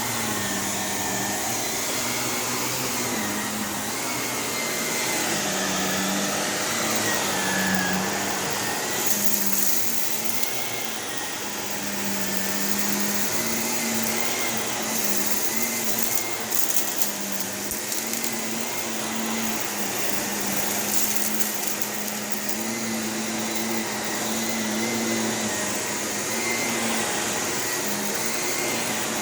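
Shark Navigator Lift-Away NV351 upright vacuum running steadily over carpet, its motor pitch wavering slightly. It gives a few brief crackly stretches, debris crunching as it is sucked up.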